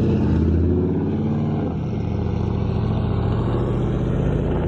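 Car engine running steadily at low speed, a deep stack of engine tones that shifts slightly about two seconds in.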